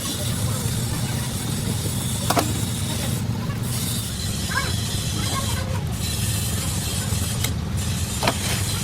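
A steady low rumble with a few sharp knocks, one about two seconds in and another near the end.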